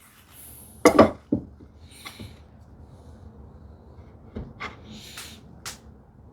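Wooden drawer parts being handled and marked on a workbench: a sharp wooden knock about a second in, a lighter one just after, then a short scrape and a few light clicks.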